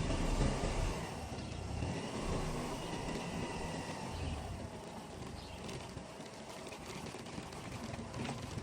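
Tank 200 motorcycle scooter's engine running as it is ridden along a road, with road and wind noise; loudest in the first second or two, easing off after about four seconds.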